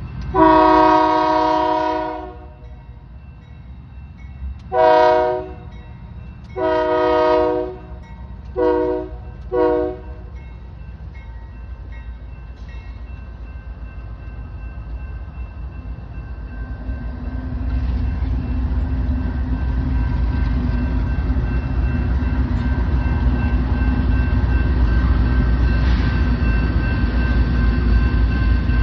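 Union Pacific freight locomotive's air horn sounding five blasts in the first ten seconds: a long first blast, then a short, a long and two short ones. Then the rumble of the approaching train's engines builds steadily from about halfway through.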